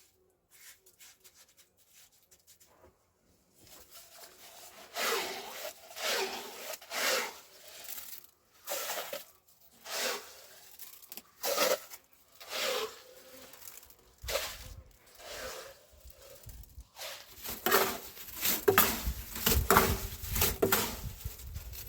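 Rhythmic rasping strokes, roughly one a second, starting about four seconds in. They come closer together and louder in the second half, and a low rumble joins them.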